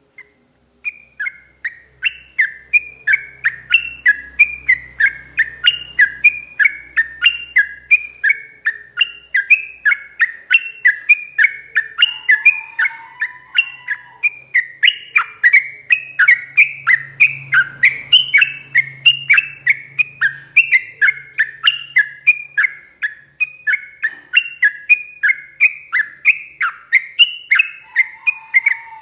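Yellow-vented bulbul (trucuk) singing a long, rapid run of short falling whistled notes, about three a second without a break. This is the 'ropel' song birdkeepers use as a master recording to train caged birds. A lower whistled note cuts in briefly twice.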